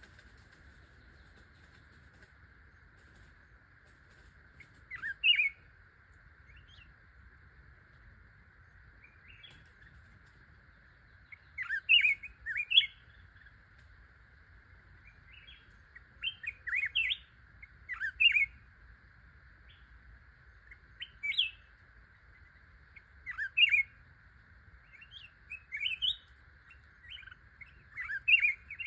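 Songbirds giving short bursts of quick, sharp chirps every few seconds, over a steady high-pitched hum.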